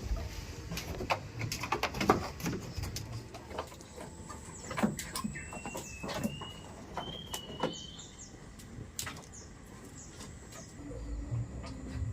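Scattered sharp knocks and clicks, with a bird chirping a few short high calls about five to eight seconds in.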